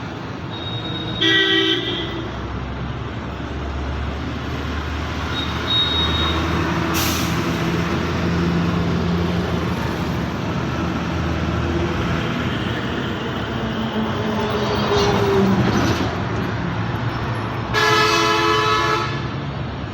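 Road traffic with heavy vehicles such as trucks running past, a steady low engine rumble that swells and fades. A vehicle horn honks briefly about a second in and again, longer, near the end.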